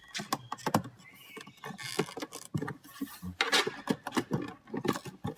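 Plastic door trim being worked loose by hand: irregular clicks, knocks and rubbing of plastic parts on the door.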